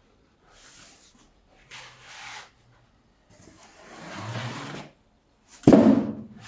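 Handling noises while a computer monitor is set up: three rubbing, scraping passes, the third longer and louder, then one sharp loud knock near the end, like a part set down or snapped into place.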